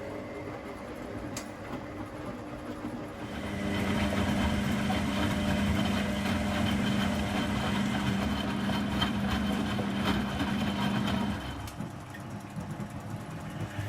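Front-loading washing machine running a wash cycle, its motor humming steadily as it turns the drum. The motor starts up about three and a half seconds in and stops again near the end, as the drum turns in bouts with pauses between.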